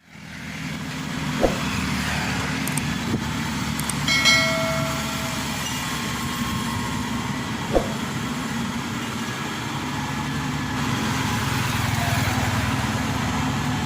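Heavy vehicle engine running steadily, fading in at the start. Two sharp knocks, about a second and a half in and near eight seconds, and a brief high-pitched tone about four seconds in.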